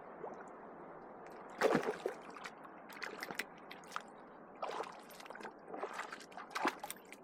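Small irregular splashes and squelches of water at a lake's edge, about ten in all starting a couple of seconds in, over a faint steady hiss.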